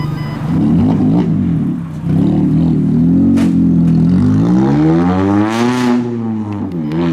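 Car engine revving through a loud exhaust. The pitch climbs and falls several times, with the highest rev about five and a half seconds in.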